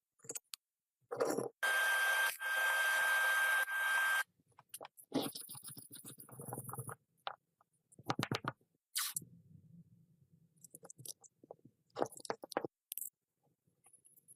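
Restoration work on an old pencil sharpener. A loud burst of about two and a half seconds carries a steady high whine and stops and starts twice. After it come short scraping strokes and scattered clicks of parts being handled.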